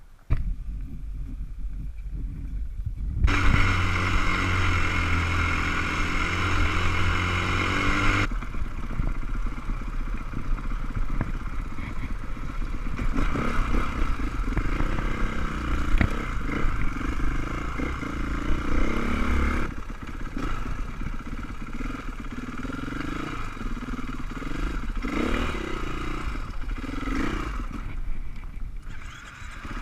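Off-road motorcycle engine running and revving, its pitch rising and falling with the throttle. A steady, louder engine note comes from about 3 to 8 seconds in.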